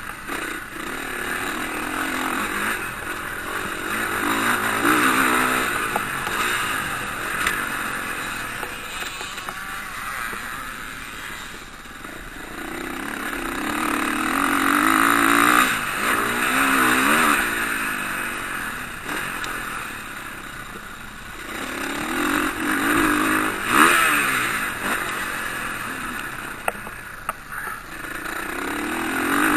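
Motocross bikes racing on the track, their engines revving up and down with sliding pitch. The sound swells loud and fades again several times as groups of riders come past.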